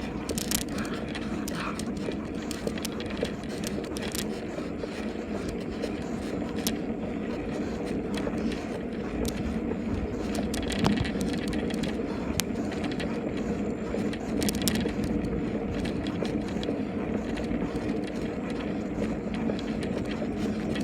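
Riding noise from a moving bicycle: steady tyre and wind noise with scattered clicks and rattles.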